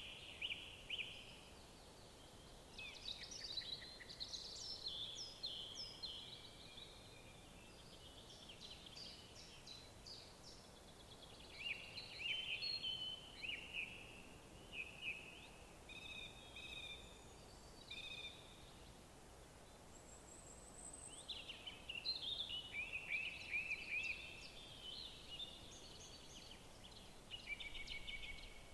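Woodland songbirds singing: repeated high, quick song phrases and trills from more than one bird, coming in bouts with short pauses, over a faint steady background noise.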